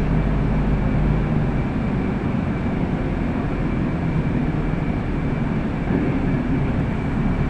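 City bus running along the route, heard from inside: a steady low rumble of engine and road noise with no sudden events.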